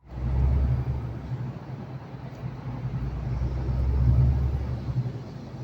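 Lorry engine and road noise while driving: a steady low drone that swells and eases.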